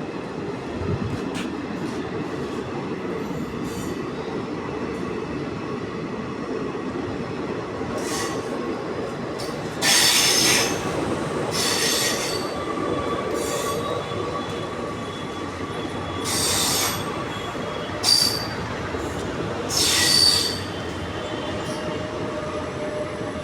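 Train running on the rails with a steady rumble, its wheels squealing in several short, loud, high-pitched screeches. The loudest screech comes about halfway through.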